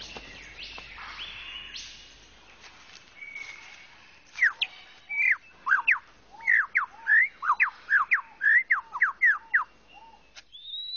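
Superb lyrebird singing: after a few seconds of quieter forest bird sounds, a rapid run of loud, sharp whistled notes sweeping up and down starts about four seconds in and lasts some five seconds.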